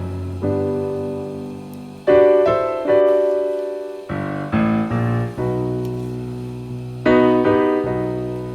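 Background piano music: slow chords struck every second or two, each ringing and fading before the next.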